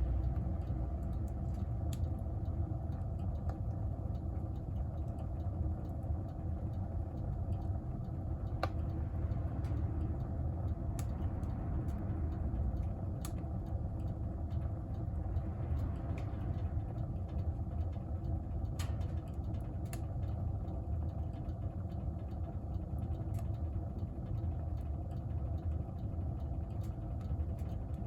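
Wood-burning stove fire: a steady low roar from the firebox, with occasional sharp crackles and pops from the burning logs.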